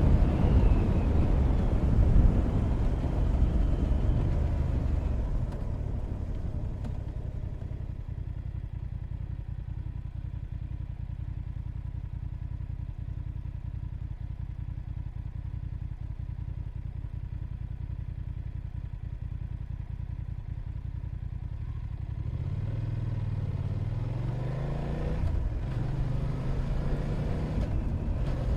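Motorcycle engine with wind rush easing off as it slows, then idling steadily at a standstill, then revving up and pulling away, its pitch rising twice as it goes up through the gears.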